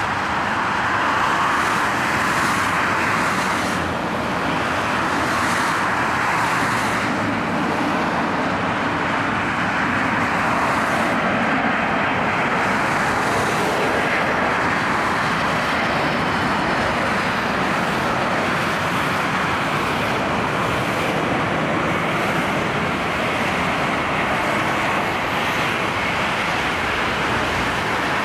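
Jet engines of a landing Boeing 747 freighter: a steady, loud rushing noise that stays at an even level throughout.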